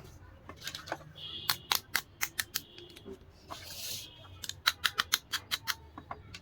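Light clicks and taps of small plastic toy dollhouse parts being handled and set down, with a brief rustle a little past halfway and a quick run of clicks, about five a second, near the end.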